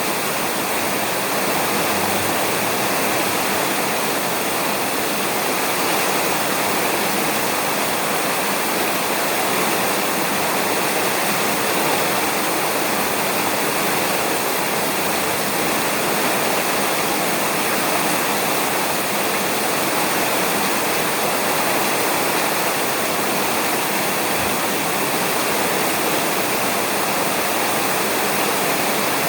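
Steady rain falling on a roof: an even, unbroken hiss of drops with no thunder in this stretch.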